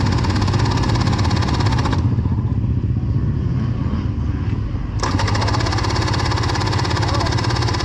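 A 300 two-stroke dirt bike's electric starter cranking the engine in two bursts, with a pause of about three seconds between them. The engine does not catch, which the rider puts down to a fouled spark plug.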